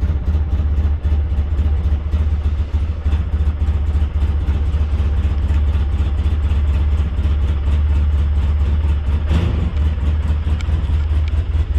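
Engine of a snowplow vehicle running steadily with a strong low hum, with a brief louder rushing noise about nine seconds in.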